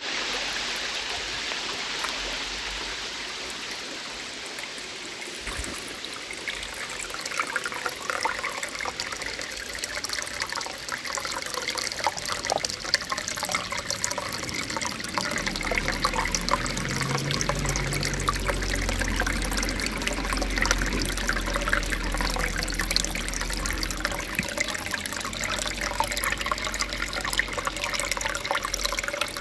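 Water from a small cave waterfall splashing and trickling onto rock, a steady rush full of small splashes. A low rumble joins underneath about halfway through.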